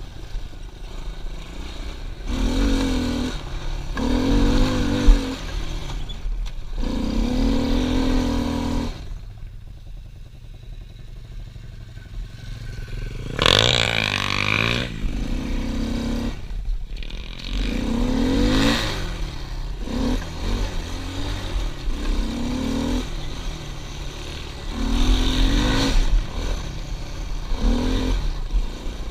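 Pit bike engine revving in repeated short bursts of throttle, its pitch rising and falling as it is ridden. It goes quieter for a few seconds about nine seconds in, then revs up sharply.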